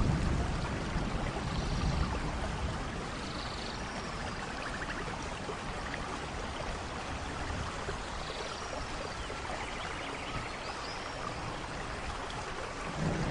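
Steady rainforest rain, with scattered high animal calls over it. A low thunder rumble dies away in the first couple of seconds, and another begins to build near the end.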